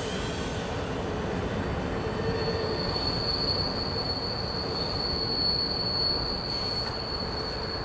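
Rumble of an empty CSX autorack freight train rolling away on jointed track, with a thin, steady, high wheel squeal coming in about two seconds in.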